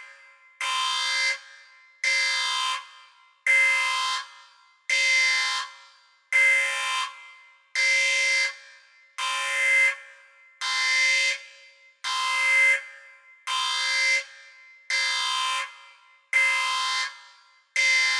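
A repeating electronic alarm-like tone, sounding about every second and a half with each pulse lasting under a second and tailing off.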